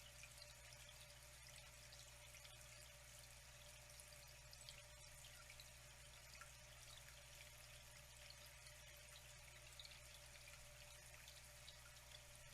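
Faint, steady flowing water, trickling with many small splashes and drips.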